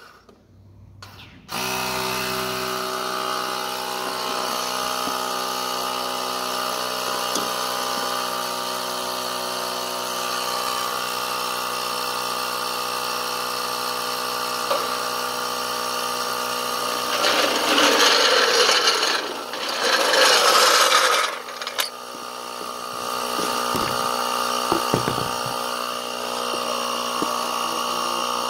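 Portable Ryobi tire inflator starting up about a second and a half in and running steadily as it pumps air into a boat trailer tire. A louder rushing noise swells twice about two-thirds of the way through.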